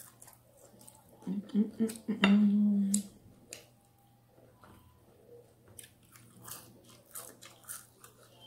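Close-miked chewing and mouth sounds of someone eating crispy fried chicken skin, with scattered crunches and lip smacks. About a second and a half in, a loud hummed 'mmm' from the eater, held for under a second.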